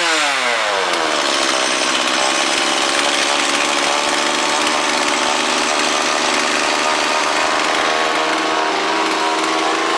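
Stihl MS 170 two-stroke chainsaw dropping from high revs to idle in the first second, then idling steadily, with no stalling now that its blocked fuel-tank vent has been cleared.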